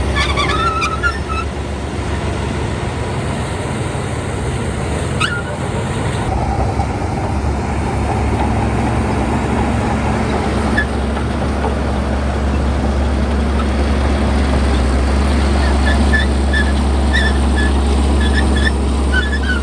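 Shantui crawler bulldozer's diesel engine running steadily, a low continuous drone.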